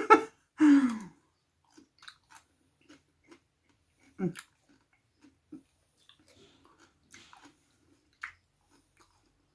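Close-miked chewing of shrimp cocktail in sauce: quiet, wet mouth clicks and smacks, spaced out, with a slightly louder one about four seconds in.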